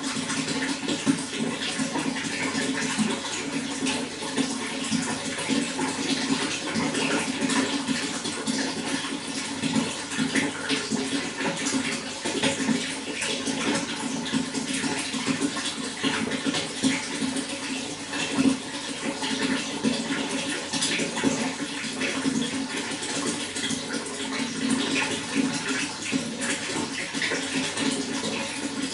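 Running water flowing steadily and continuously, with dense small splashes throughout.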